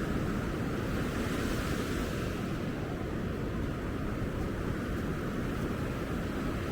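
Steady, even rushing of ocean surf on a beach, mixed with wind on the microphone.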